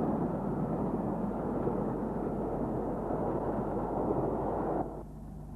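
Steam locomotive running, heard as a dense, steady noise that cuts off suddenly near the end, leaving a faint low hum.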